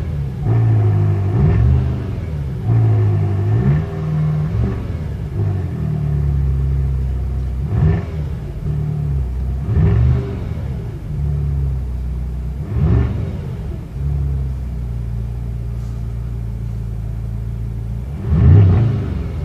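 BMW M5 exhaust at idle, blipped by short throttle revs that rise and fall back quickly: several in quick succession at first, a few more spaced out, and a louder pair near the end. Between the revs it settles back to a steady idle.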